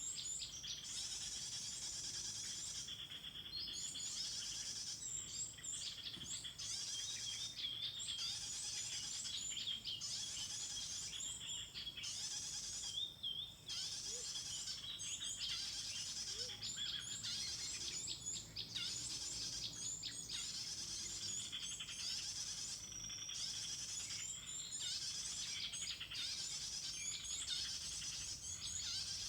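Small songbirds chirping and twittering, dense and continuous with brief pauses, over a steady high-pitched buzz.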